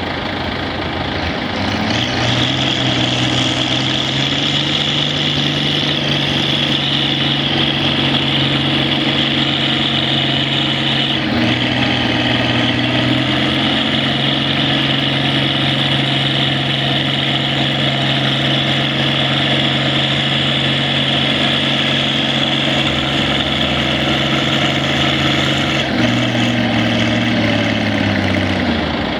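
Antique tractor engine revving up and held at high revs under load on a pull, with a brief dip about 11 seconds in, then throttling back near the end. A steady high whine runs over it.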